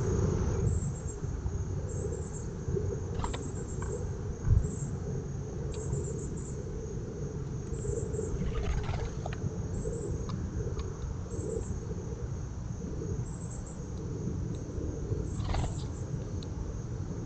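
Faint high-pitched insect chirping, repeating about once a second, over a steady low rumble, with a few brief higher calls.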